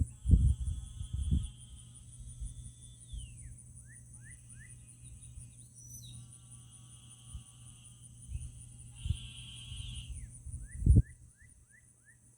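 Frogs calling after heavy rain, with pulsed trills of about two seconds each, over a steady high insect drone. Two runs of five or six quick downward chirps come in, one about three seconds in and one near the end. Low thumps at the start and just before the end are the loudest sounds.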